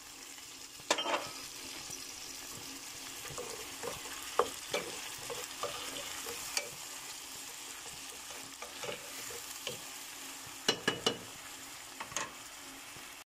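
Chicken pieces and potato chunks sizzling in soy sauce in a frying pan while being stirred, with sharp knocks and scrapes of the utensil against the pan, several in quick succession about eleven seconds in.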